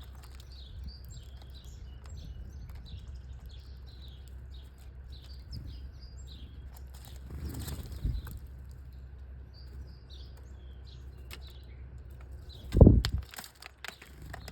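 Small birds chirping many times in quick, irregular short calls over a low steady background. A loud low thump comes near the end.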